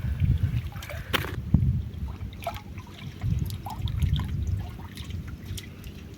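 Shallow river water trickling and dripping, with small scattered splashes, as a hand net is worked for prawns.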